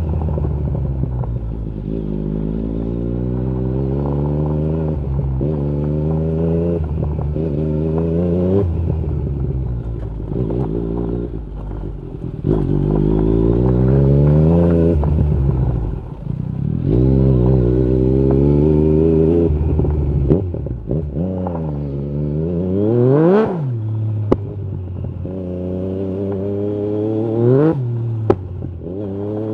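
Yamaha MT-09 SP's inline three-cylinder engine through an Akrapovic carbon exhaust with the dB killer removed, accelerating hard and shifting up through the gears again and again, each gear a rising pitch that drops at the shift. About three-quarters of the way in there is a sharp rev that rises and falls, and a few short exhaust cracks come near the end.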